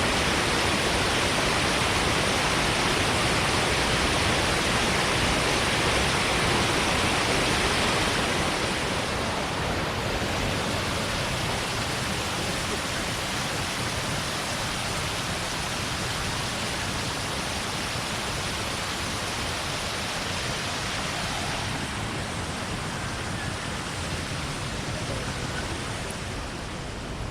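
Shiraito Falls, a low, wide curtain of water spilling over a rock face, rushing steadily. The rush eases slightly about eight seconds in and again some seconds before the end.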